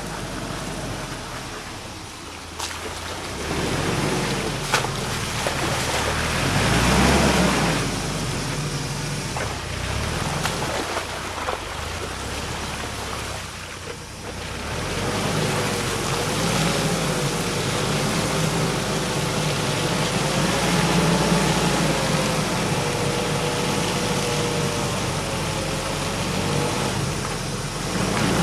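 UAZ Patriot 4x4 crawling over a forest track at idle without throttle, its engine running low under load, with a few sharp knocks early on. About halfway through, a wavering whine comes in over the engine.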